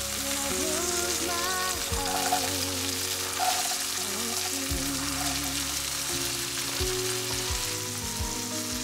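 Oil sizzling steadily in a wok as spring onions, garlic and chopped green beans stir-fry, with soft background music underneath.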